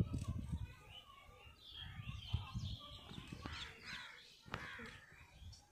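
Birds calling, including crow-like caws, over low rumbling handling noise, with two sharp clicks about three and a half and four and a half seconds in.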